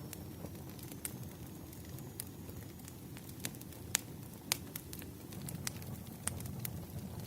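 Firewood burning: a steady low rumble of flames with scattered sharp crackles and pops, the loudest about four seconds in.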